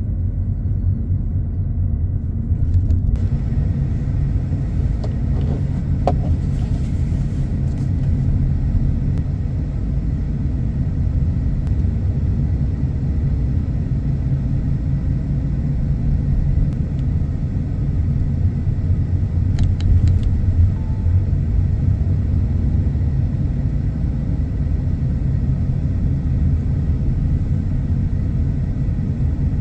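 Car driving steadily, a constant low road and engine rumble with faint hiss above it and a few small clicks.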